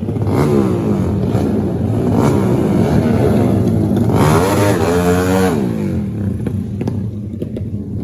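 Trail motorcycle engine revving, its pitch rising and falling as the throttle is worked, with a long climb in revs that drops off about six seconds in, followed by a few light clatters.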